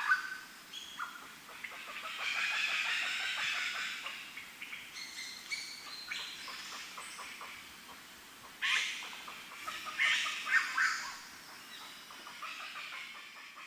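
Birds calling: several overlapping calls and call bursts, louder at the start and again about nine to eleven seconds in.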